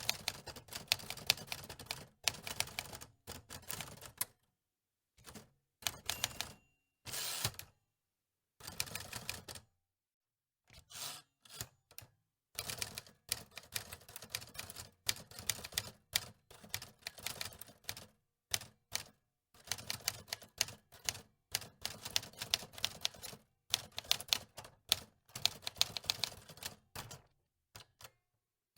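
Manual typewriter keys clacking in bursts of rapid typing, broken by a few short pauses.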